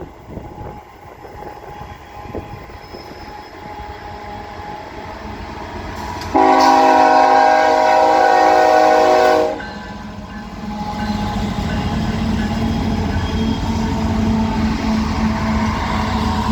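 Freight train approaching: the lead locomotive, a GE Evolution-series diesel, sounds its multi-chime air horn in one long blast of about three seconds, several tones at once, cutting off sharply. Before and after the blast the locomotives' diesel engines rumble and grow louder as they draw near, with a steady low hum.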